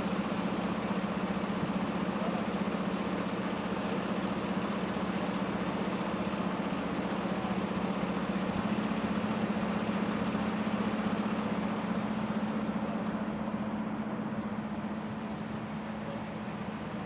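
A large vehicle engine idling steadily with a constant low hum, easing slightly near the end.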